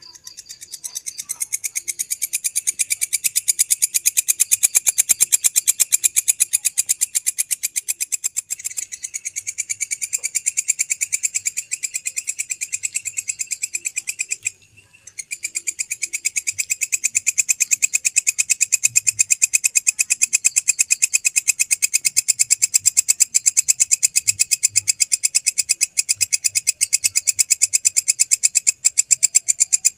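A belalang, an insect of the grasshopper family, singing: a fast, steady, high-pitched train of rasping pulses. It swells over the first few seconds, stops briefly about halfway through, then carries on.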